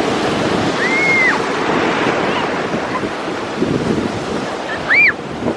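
Ocean surf washing steadily, with wind buffeting the microphone. Two short high-pitched calls rise and fall, one about a second in and a louder one near the end.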